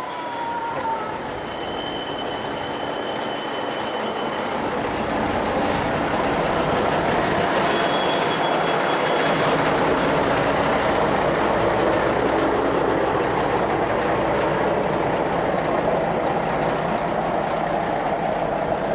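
Train cars rolling slowly on rails while a switcher locomotive pushes them. The rumbling builds over the first few seconds and then holds steady, with a low hum underneath and a thin, high wheel squeal in the first few seconds.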